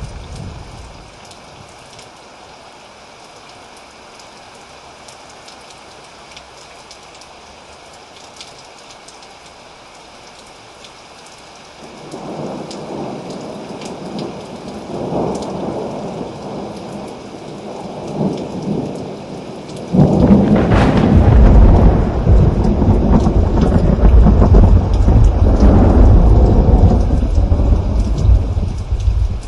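Thunderstorm: steady rain falling, with thunder rumbling in from about twelve seconds in. At about twenty seconds a loud thunderclap breaks and rolls into a long, deep rumble that carries on until the end.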